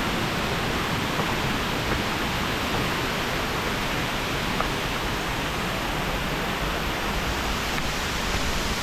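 Waterfall water rushing steadily down the cascades close by, an even, unbroken wash of noise.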